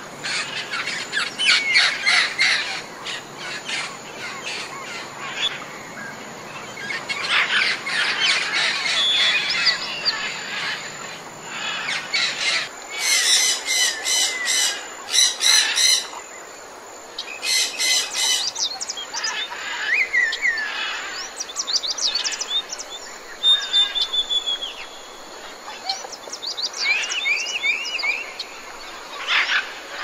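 Several wild birds chirping and calling in quick, overlapping bursts of short notes and brief whistled phrases. A harsh, rapid chattering call cuts in a few times around the middle.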